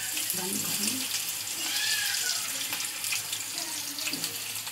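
Masala-coated okra (bhindi) pakoras sizzling and crackling in hot mustard oil in a kadhai as more pieces are dropped in, a steady hiss full of fine pops.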